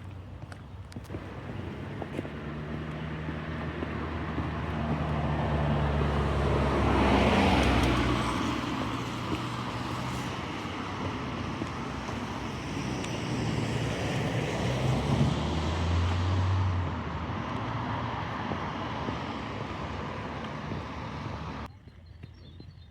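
Motor traffic passing on a town street: one vehicle's engine and tyres grow louder and pass close about seven seconds in, and another goes by around fifteen seconds in. The traffic noise cuts off suddenly near the end.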